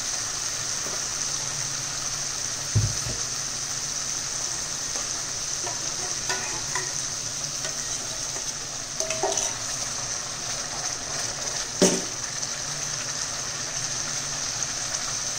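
Masala paste frying in hot oil in a cast-iron kadai, a steady sizzling hiss. A few knocks of a utensil against the pan break in, the loudest about twelve seconds in.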